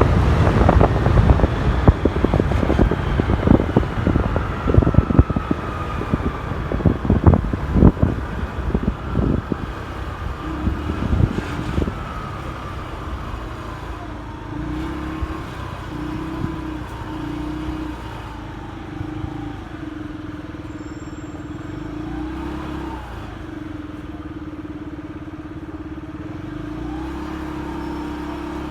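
Motorcycle riding in traffic, with wind buffeting the microphone in loud thumps and the engine whine falling as it slows. After about twelve seconds the wind drops away, leaving a steady engine hum with short breaks.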